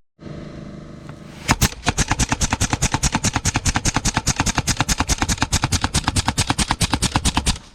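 A rapid, even series of sharp mechanical knocks, about nine or ten a second, starting about a second and a half in and cutting off abruptly near the end, over a low steady hum.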